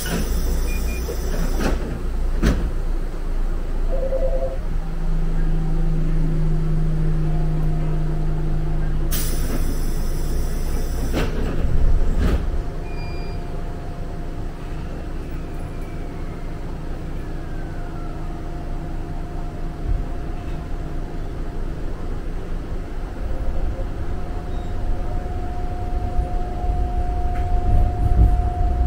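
Interior of a Yoro Railway electric train: two bursts of compressed-air hiss, one at the start and one about ten seconds in, then a steady motor whine as the train pulls away, with wheel rumble growing louder near the end.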